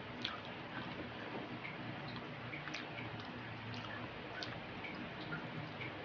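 Close-miked eating: scattered soft, wet mouth clicks and smacks of chewing fried street food, with light drips as a skewered piece is dipped in vinegar and lifted.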